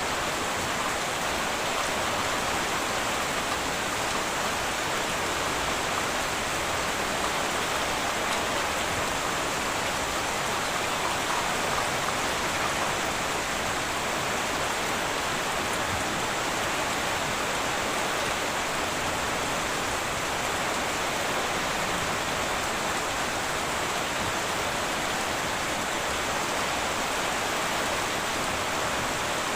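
Heavy rain falling steadily on a tin roof, an even rushing hiss with no let-up and no thunder.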